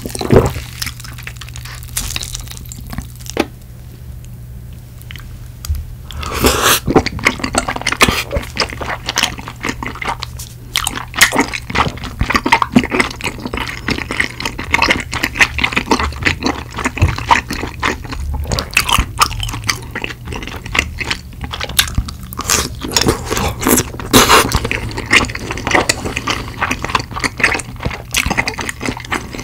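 Close-miked eating sounds: a sip of cola at the very start, then a quieter pause, then from about six seconds in, steady wet chewing of spicy rice cakes (tteokbokki) with melted cheese in sauce.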